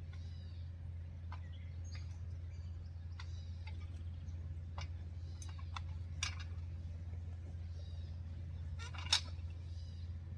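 Sharp clicks and snaps of Springfree trampoline fibreglass mat rods being fed and seated into the frame, scattered and irregular, the loudest about nine seconds in, over a steady low hum.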